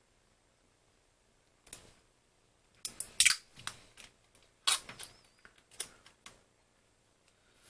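Aluminium foil crackling and being snipped as a small piece is handled and cut, in a string of short sharp crackles, loudest about three seconds in.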